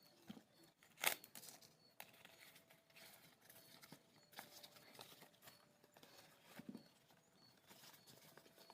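Faint eating sounds: soft, scattered mouth clicks and smacks while chewing, with one sharper click about a second in.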